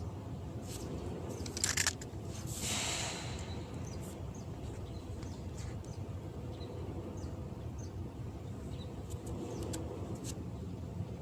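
Steady low outdoor rumble, like distant engines, with a few sharp clicks a second or two in, a brief hiss soon after, and faint bird chirps.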